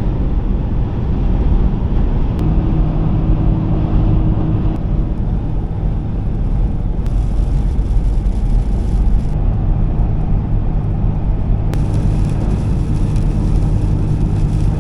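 Motor vehicle driving, heard from inside: a steady low engine and road rumble with a constant hum.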